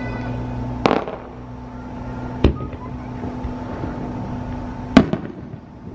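Aerial firework shells bursting: three sharp bangs a second or two apart, the loudest near the end, over a steady low hum.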